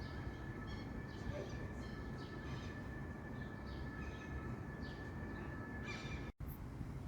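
Birds giving short calls, often a few in a second, over a steady low outdoor rumble and a thin steady high tone. The sound cuts out abruptly for a moment near the end.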